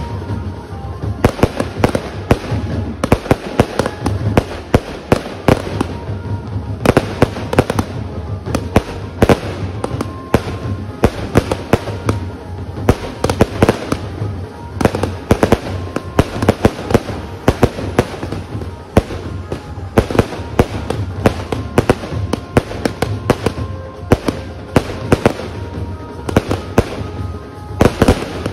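Multi-shot aerial firework cake firing a rapid, continuous volley of loud bangs and crackling bursts, several a second.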